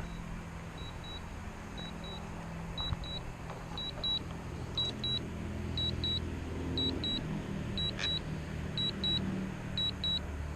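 Drone remote controller beeping in pairs of short high tones about once a second, typical of a return-to-home flight, over a steady low hum.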